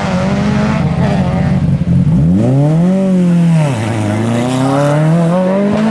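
Group B rally car engine under hard acceleration. The revs climb steeply, drop sharply at an upshift, then climb again as the car pulls through the next gear.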